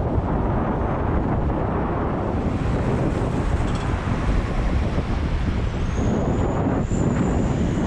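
Steady wind noise buffeting the microphone of a moving bicycle, a dense low rumble. A faint thin high tone comes in about six seconds in and lasts about a second and a half.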